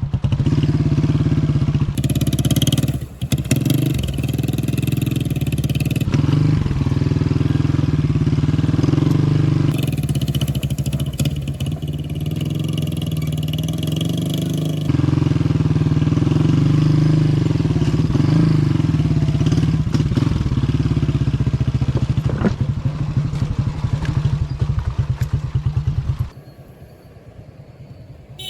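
Motorcycle engine running steadily under the rider, its note shifting a little with the throttle; about 26 seconds in the sound drops off sharply.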